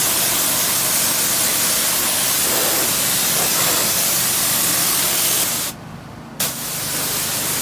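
Rented 2700 PSI pressure washer spraying with a steady loud hiss over the running engine. The spray cuts out for about half a second near the end and starts again, as the trigger is released and squeezed.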